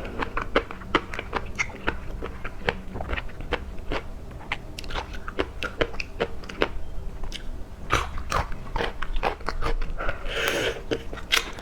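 A person chewing and biting seafood, with many small crunching clicks coming irregularly several times a second.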